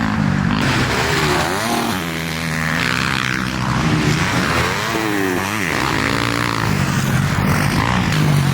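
Dirt bike engine revving on a motocross track, its pitch rising and falling a few times as the throttle opens and closes through the gears.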